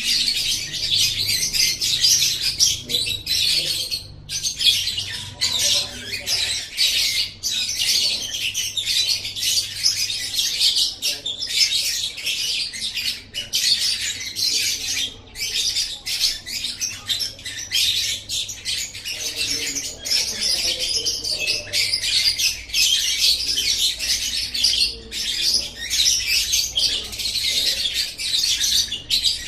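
Lovebird chattering song: a dense, high-pitched stream of rapid chirps and squeaks running almost without a break, with only a few short pauses.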